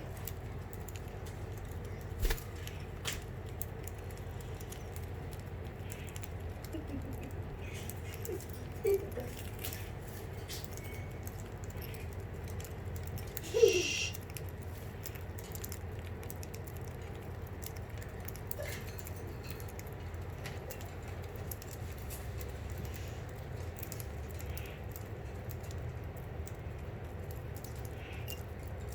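Budgerigars feeding: many small scattered clicks and taps of beaks on seed and cage, with a few short chirps, the loudest about halfway through, over a steady low hum.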